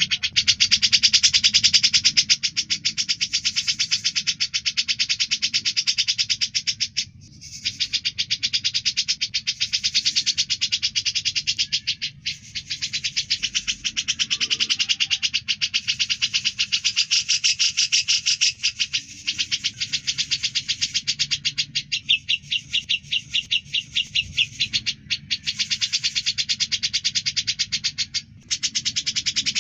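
Cucak jenggot (brown-cheeked bulbul) singing a fast, near-continuous chatter of rapid repeated notes, broken by a few brief pauses.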